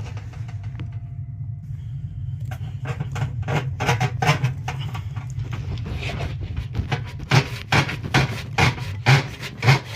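Irregular scraping and knocking as soot and debris are cleaned out of an oil burner's flue, over a steady low hum. The scraping starts about two and a half seconds in and grows busier and louder toward the end.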